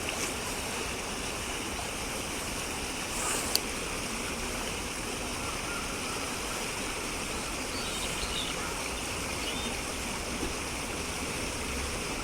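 Steady rush of flowing water, like a stream or small cascade. There is a sharp click about three and a half seconds in, and a few faint short chirps, likely small birds, around eight seconds in.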